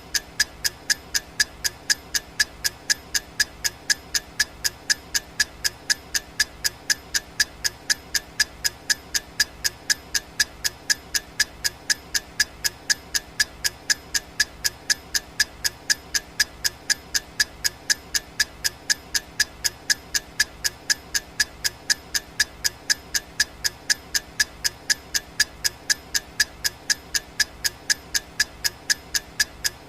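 Clock ticking sound effect: sharp, evenly spaced ticks, about two a second, keeping a steady pace.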